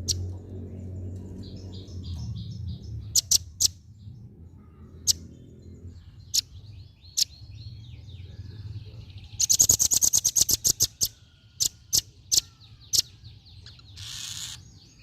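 Female velvet-fronted nuthatch calling: sharp single chip notes spaced out, with a fast rattling trill of about fifteen notes about two-thirds of the way through. A low hum runs under the first few seconds, and a short hiss-like burst comes near the end.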